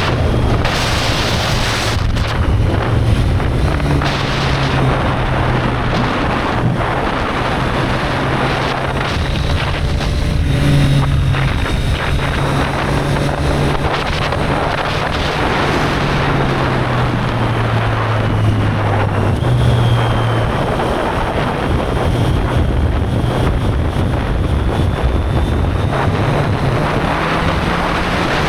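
Triumph Street Triple 765 R's three-cylinder engine running under way, its note stepping up and down with throttle and gear changes, under heavy wind noise on the microphone. The pitch sinks slowly about two-thirds of the way through, then jumps back up.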